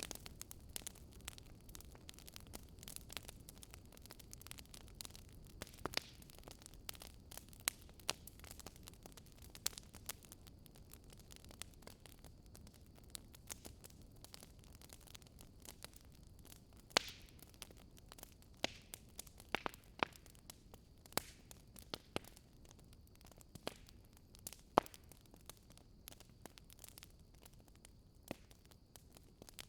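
Wood fire crackling softly: irregular sharp pops and snaps, some louder than others, over a low hiss of burning.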